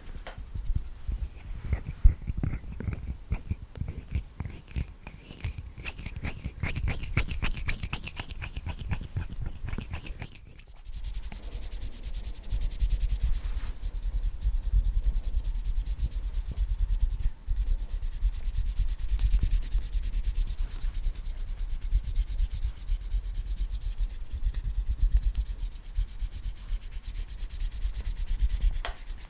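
Bare hands making sounds close to a microphone: rapid finger fluttering and tapping at first, then, after a brief pause about ten seconds in, fast rubbing of the hands that makes a steady hiss.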